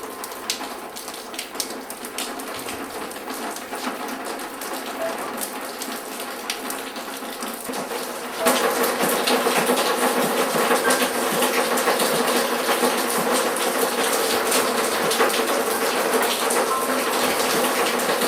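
Rain falling and splashing, with many small drop clicks, growing suddenly louder and heavier about eight seconds in.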